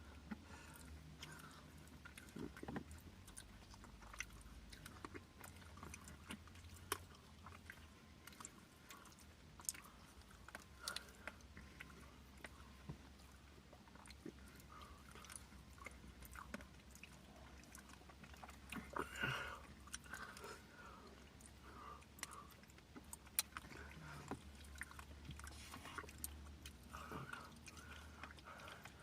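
Quiet eating of Dairy Queen Blizzards: soft chewing with scattered small clicks and scrapes of spoons in the cups, over a low steady hum inside the car. A brief louder rustle comes about two-thirds through.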